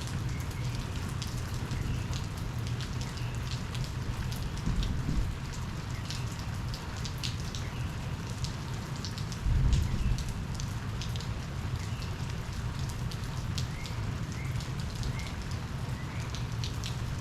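Steady rain falling, with many individual drops ticking sharply over a constant low rumble. Two brief, louder low bumps come about five seconds in and again near ten seconds.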